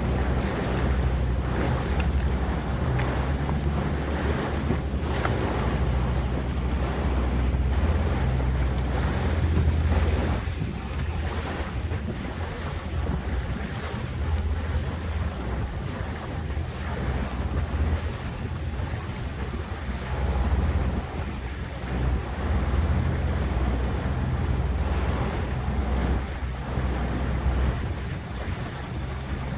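Motorboat engine running steadily with a low hum, and wind buffeting the microphone over water rushing past the hull.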